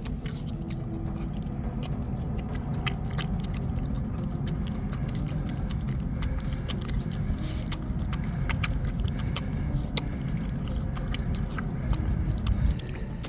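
A puppy eating, chewing with many small, sharp, irregular clicks over a low rumble.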